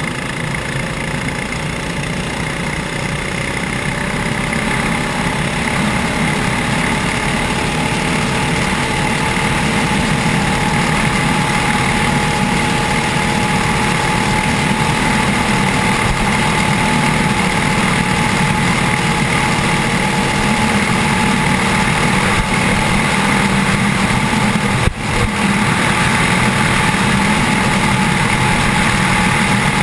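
Mini bike's 6.5 hp Honda-clone single-cylinder engine, governor bypassed, running flat out. Its pitch and loudness climb slowly over the first several seconds, then hold steady near top speed, with a brief dropout about 25 seconds in.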